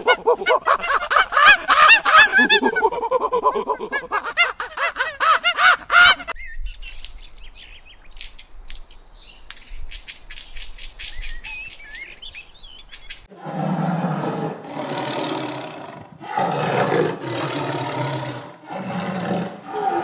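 Three animal calls in turn: a monkey's rapid, high-pitched chattering calls for about six seconds, then a squirrel's quick clicking chatter with a few short chirps, then from about two-thirds of the way in a series of deep lion roars.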